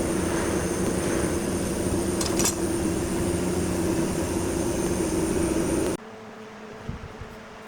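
Electric workshop machine running steadily with a constant hum, then cutting off suddenly about six seconds in, leaving a much quieter hum with a few faint clicks.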